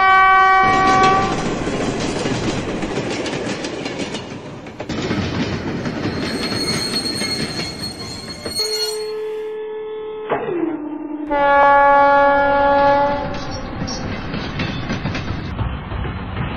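Train running on rails with continuous rumbling and clacking, a short horn blast at the start and a longer horn blast from about 9 seconds that drops in pitch partway and holds until about 13 seconds. A thin high squeal sounds between about 6 and 8 seconds.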